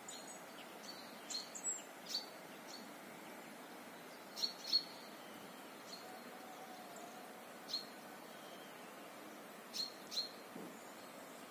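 Birds calling: short, sharp, high chirps, often in quick pairs, every second or two, over a faint steady background hiss.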